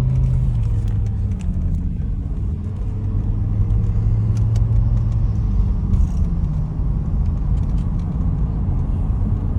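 The 5.0-litre S85 V10 of a 2007 BMW M6 running at low revs during a gentle warm-up drive, held below 3,000 rpm, with a steady low drone and road rumble. The engine note drops slightly about half a second in.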